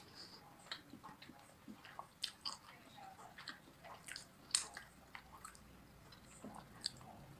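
A person chewing and biting sauced fried chicken with the mouth close to the microphone: faint, scattered mouth clicks and smacks, the loudest about four and a half seconds in.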